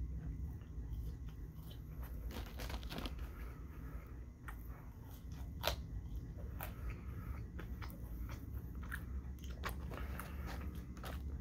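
Close-miked chewing and wet mouth sounds of a person eating French fries: many soft smacks and clicks, with one louder smack a little past the middle. A low steady hum runs underneath.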